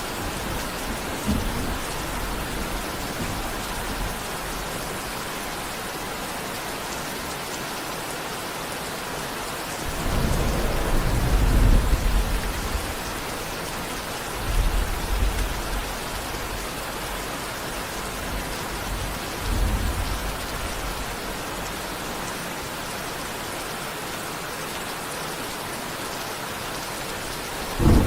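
Steady heavy rain hissing, with low rolls of distant thunder: a long one rumbling for about two seconds near the middle, then shorter ones a few seconds later and again at the end.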